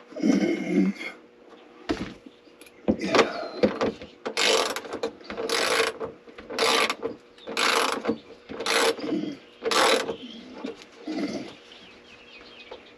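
Ratchet wrench tightening a nut onto a bolt, clicking in short strokes about once a second.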